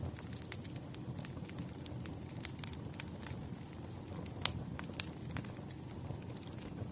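Burning firewood crackling, with irregular sharp pops over a steady low rumble of the fire; one pop stands out louder just past the middle.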